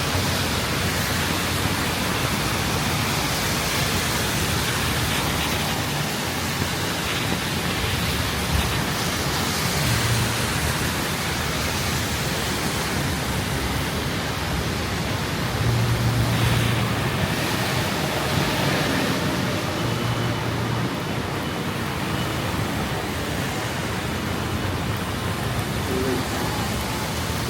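Heavy thunderstorm rain falling in a steady downpour, with a few short low rumbles underneath.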